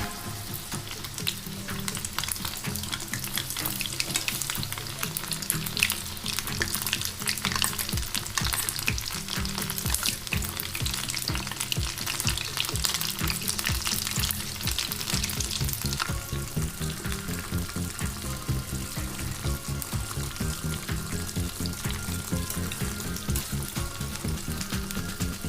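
Egg-and-flour-battered chicken pieces deep-frying in hot oil, a steady dense crackle and sizzle. Background music with a beat plays underneath.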